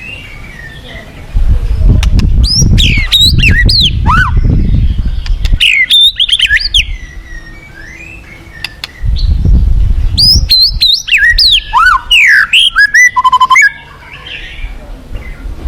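White-rumped shama (murai batu) singing in two long bursts of rapid, varied whistles that swoop up and down, the second ending in a short buzzy trill. A low rumble rises under each burst and drops away between them.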